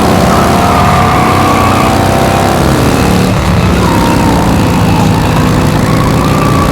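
Car engine sound running steadily, its pitch slowly wavering up and down.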